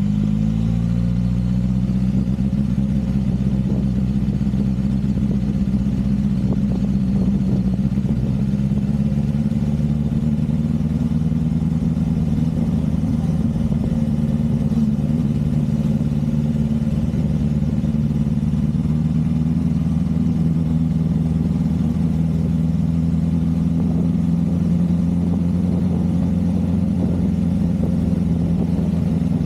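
Motorcycle engine running steadily while riding along at an even speed. Its pitch dips slightly about a second in, then holds almost level.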